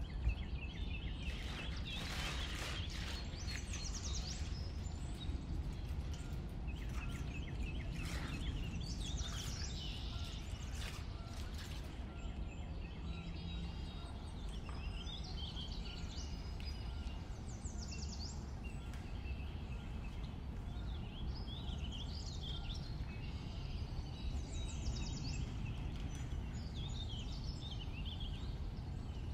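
Plastic bag crinkling in quick crackles as it is pulled down off a block of clay, dying away after about twelve seconds. Under it are a steady low background rumble and birds chirping on and off throughout.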